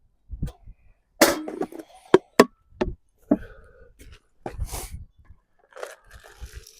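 Irregular sharp knocks and clatters with short rattles, from a squirrel feeder being filled by hand with dried corn, sunflower seeds and peanuts.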